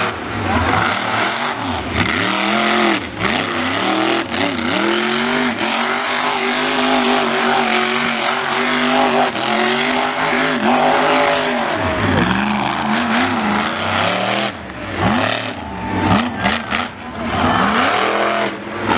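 A big vehicle engine revving hard over and over, its pitch repeatedly rising and falling, with brief lulls between revs near the end.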